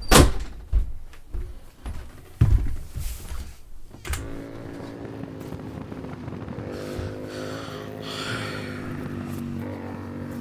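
Several sharp knocks and thumps, then a car engine running with a steady pitched drone that holds for the rest of the time.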